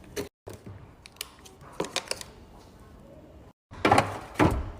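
Plastic mandarin fruit cups being set down and stacked into a plastic storage container: scattered light clacks and knocks, with a louder cluster of knocks near the end.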